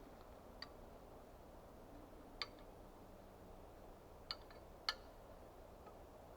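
Four faint, sharp clicks, the loudest near the end, each with a brief ring, over a quiet steady background.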